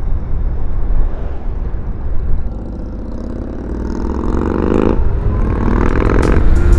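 Motorcycle engine accelerating with heavy wind noise on the microphone: the engine note climbs in pitch, drops at a gear change about five seconds in, then climbs again.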